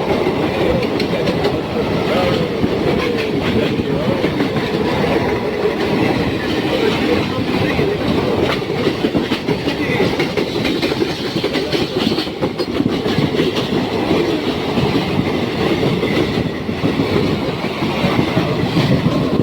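Indian Railways express train's coaches rolling past, their wheels clattering over the rail joints in a steady, continuous clickety-clack.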